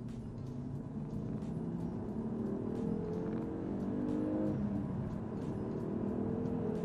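Mk2 Ford Focus ST's turbocharged five-cylinder engine pulling under acceleration, heard from inside the cabin: its pitch climbs, drops at an upshift about four and a half seconds in, then climbs again.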